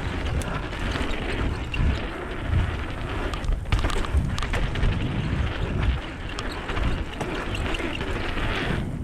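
Wind buffeting the microphone and knobby tyres rolling over a dirt jump trail on a carbon-framed 2014 Transition Covert 26er mountain bike, with a few knocks and rattles from the bike over rough ground, a cluster of them about four seconds in.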